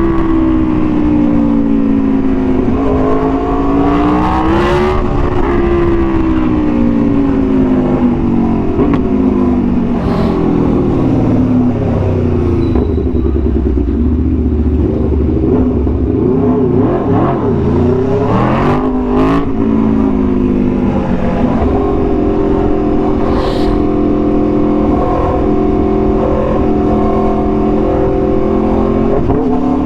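Aprilia Tuono V4 1100's V4 engine through an SC-Project exhaust, under way. The revs climb and drop back a few seconds in, sag to a low pull through the middle, rise sharply again about two-thirds through, and then hold a steady cruise.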